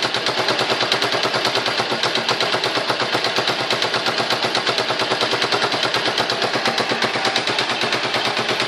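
Shineray motorcycle engine idling on its original exhaust, a steady rapid putter of about ten beats a second.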